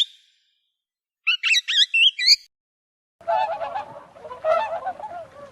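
Bird calls: a quick run of high, warbling chirps, then a dense chorus of many lower calls overlapping one another, like a flock calling together, which stops abruptly.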